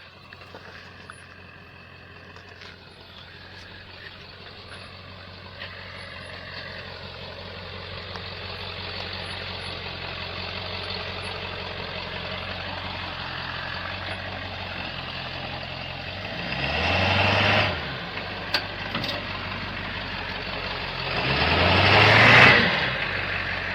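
Pickup truck engine running at low speed on a rough trail, revved hard twice near the end, about five seconds apart.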